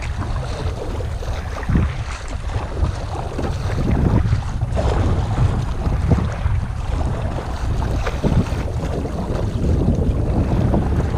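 Wind buffeting the microphone in a heavy low rumble, with water lapping and splashing around a kayak in a few irregular strokes.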